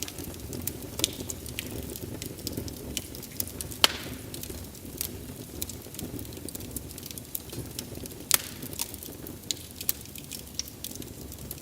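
Wood fire burning with a steady low rumble and frequent irregular crackles and pops, the sharpest pops about four seconds in and a little past eight seconds.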